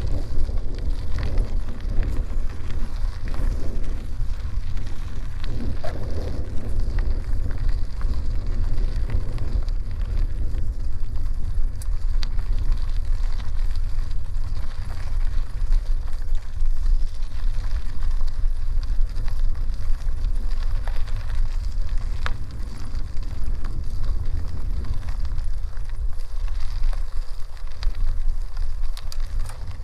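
Bicycle ride on a dirt road: a steady deep wind rumble on the microphone over the crackle of tyres rolling on dirt, with scattered small clicks.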